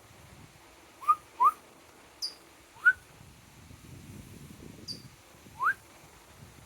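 A small bird gives brief, very high chirps, twice, and a person answers with short rising whistles, four of them, which are louder than the chirps. It is a back-and-forth whistling exchange with the bird.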